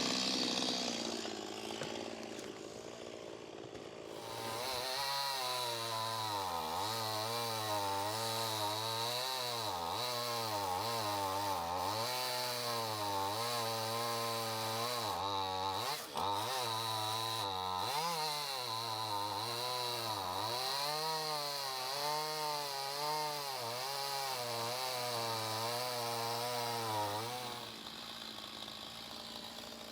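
Chainsaw cutting wood, starting about four seconds in and stopping near the end, its engine pitch repeatedly dropping and rising as the chain bites in and frees up, with a brief stumble about midway.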